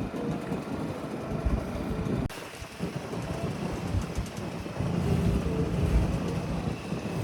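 Low, noisy rush from a moving boat: wind buffeting the microphone over the boat's engine. About two seconds in the sound drops suddenly, then builds again.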